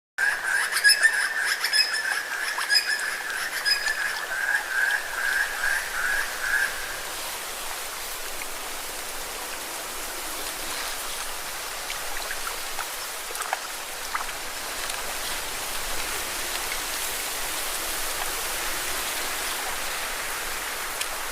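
Lake waves washing steadily against rocks, a constant watery hiss. Over it, for the first several seconds, an animal gives a high, rapidly pulsing trill that fades out.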